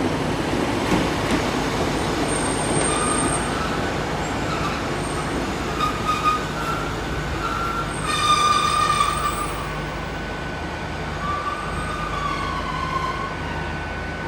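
Passenger train moving slowly through the station, its wheels squealing in wavering high tones that come and go, loudest about eight seconds in, over a steady low hum from the train.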